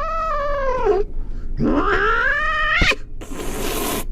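Domestic cat yowling in two long, drawn-out, wavering calls, the second rising in pitch, followed by a second of hissing noise near the end.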